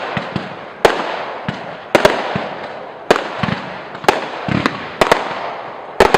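Fireworks display: sharp aerial bangs about once a second, some in quick pairs, each trailing off as it fades.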